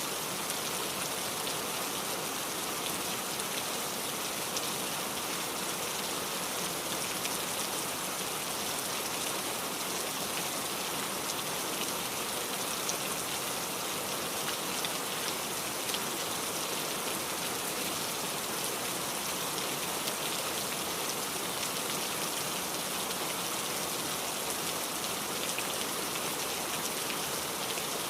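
Steady rain falling and pattering on a surface, an even hiss with faint scattered drop ticks.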